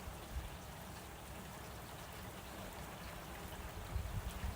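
Steady rain falling, an even hiss of raindrops, with a few soft low thuds about four seconds in.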